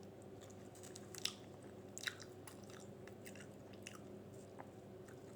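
A woman chewing a mouthful of a soft chicken and roasted pepper wrap close to the microphone: scattered quiet, wet mouth clicks, the sharpest about one and two seconds in, over a faint steady hum.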